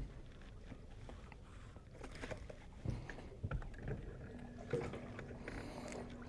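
Faint scattered knocks and handling noises in a fishing boat while a freshly caught bass is being landed and handled. A faint steady low hum comes in a little past the middle.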